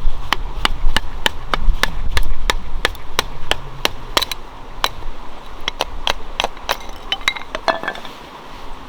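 A knife striking wood in a steady chopping rhythm, about three sharp knocks a second, with a few lighter clinks near the end. Low wind rumble on the microphone in the first half.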